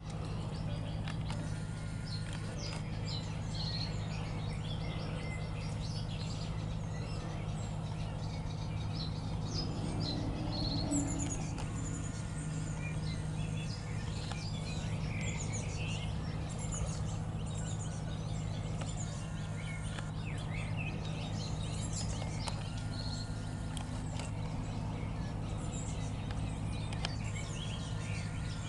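Birds chirping and calling on and off over a steady low background rumble.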